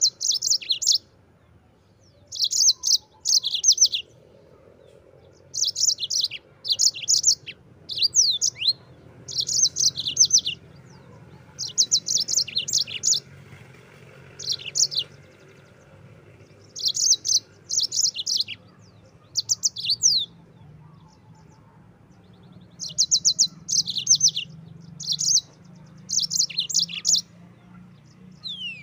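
Yellow-fronted (Mozambique) canary singing in short bursts of rapid, high trilled notes with quick downward-sweeping whistles, each burst about a second long and repeated every second or two after brief pauses.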